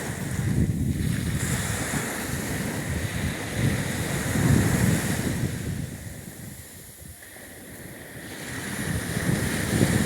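Black Sea surf washing onto the shore in surges, with wind buffeting the microphone. It eases off for a couple of seconds past the middle, then builds again near the end.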